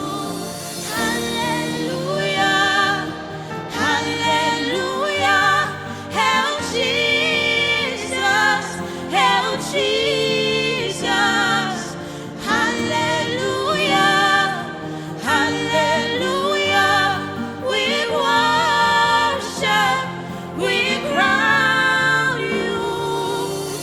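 Gospel song: a singing voice with held, bending notes over musical accompaniment.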